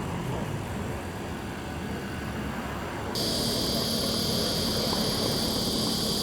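Outdoor wind rumble on the microphone. About three seconds in, a loud, steady, high-pitched insect chorus starts abruptly and drowns out everything else.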